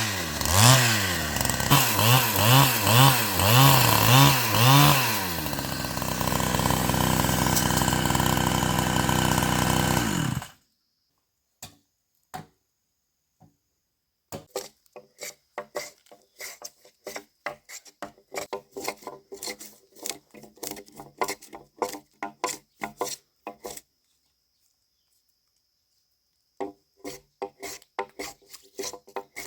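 Chainsaw revving in quick pulses, then running steadily at high speed before cutting off suddenly about a third of the way in. After a short pause, a long run of quick, irregular scraping or tapping strokes on wood, with a break of a few seconds near the end.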